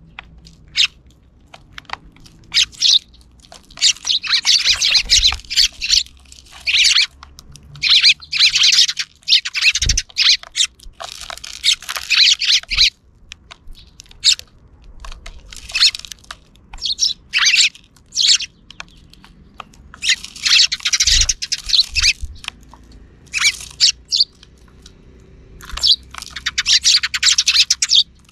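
Several sparrows chirping in bouts of busy chatter a few seconds apart, with single short chirps in between.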